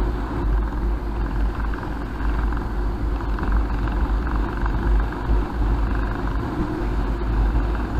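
Motorcycle running steadily at road speed, its engine note under heavy low wind rumble on the action-camera microphone.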